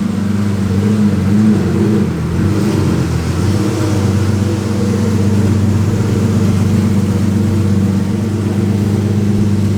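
A Lamborghini's engine running at low revs as the car creeps slowly forward: a steady, low engine drone.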